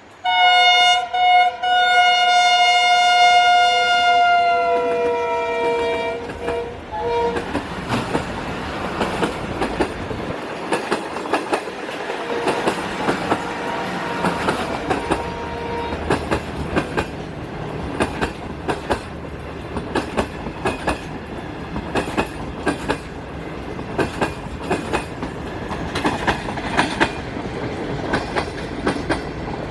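Pakistan Railways HGMU-30 diesel-electric locomotive sounding a long multi-tone horn as it passes, the pitch sagging slightly near the end of the blast. Then the Green Line express's coaches rush by with an uneven clickety-clack of wheels over rail joints.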